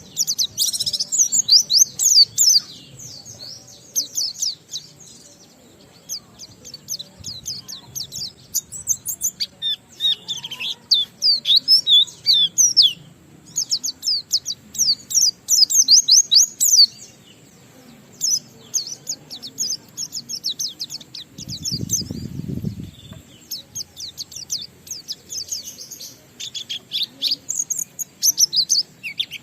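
White-eye (pleci) singing long, rapid runs of high twittering chirps, its song filled with mimicked phrases. The runs come in bursts with short pauses between them. A brief low rumble comes about two-thirds of the way through.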